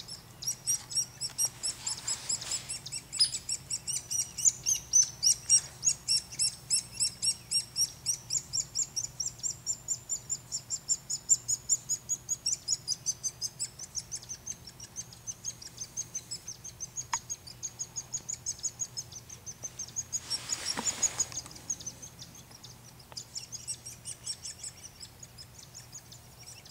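Hairy woodpecker nestlings begging from the nest cavity: an unbroken run of high, rapid chirps, several a second, that thins out near the end. A brief rush of noise passes about two-thirds of the way through.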